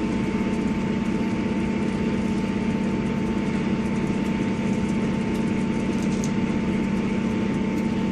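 Diesel engine of a Class 158 diesel multiple unit (158890) running steadily under way, with a constant low drone and a thin steady whine above it.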